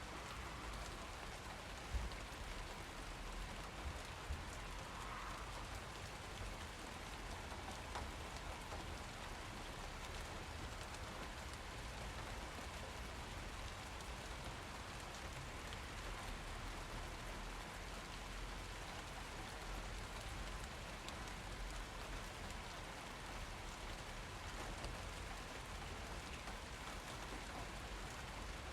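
Steady rainfall pattering on surfaces, with a few louder individual drops landing near the start.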